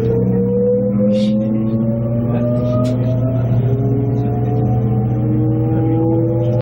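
Electric train accelerating: a steady low hum with traction-motor whine rising slowly in pitch.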